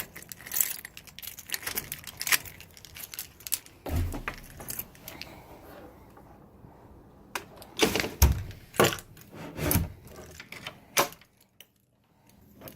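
Keys jangling with rapid clicks and rattles of handling, then a few louder knocks about two-thirds of the way through before it falls quiet.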